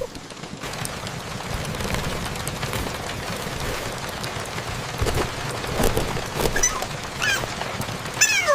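Rain sound effect: a steady hiss of falling rain. Near the end come a few short, high squeaks that fall in pitch.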